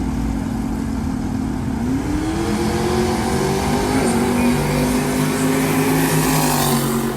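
Car engine on a drag strip holding steady revs, then from about two seconds in climbing steadily in pitch as the car accelerates away.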